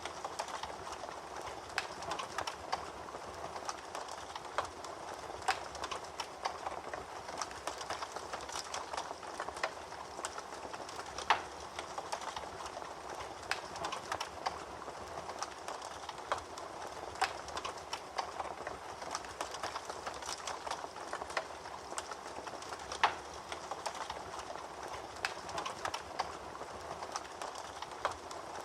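Fire crackling in a fireplace: a steady soft hiss of burning with irregular snaps and crackles throughout, and a couple of louder pops.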